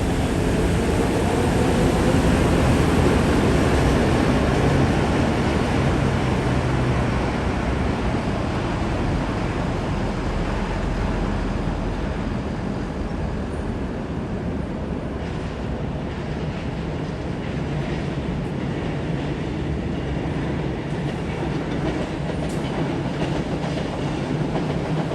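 A train running: a steady rumble and rushing noise, with a faint rising whine in the first few seconds.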